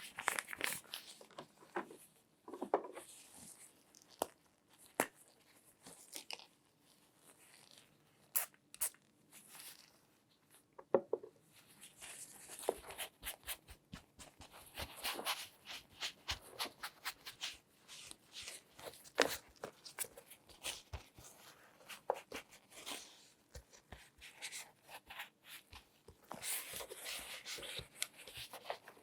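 Close-miked handling sounds: scattered sharp taps and clicks with stretches of crinkly rustling, as gloved hands work over objects.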